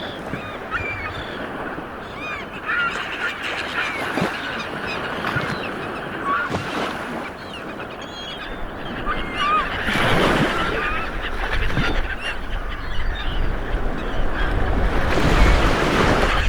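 A flock of birds calling, with many short calls overlapping, over a steady rushing wash of water.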